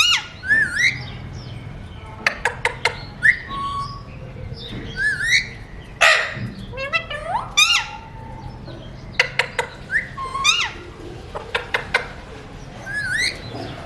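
Pet parakeet calling and chattering: runs of sharp, rapid clicks, short whistled notes that wobble up and down in pitch, and one harsh squawk about six seconds in.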